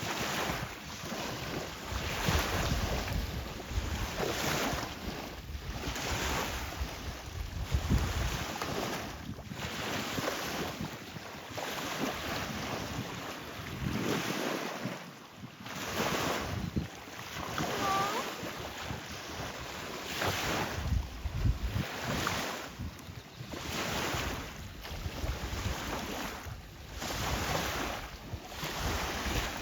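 Wind and surf noise, swelling and fading every couple of seconds, with wind buffeting the microphone as a low rumble.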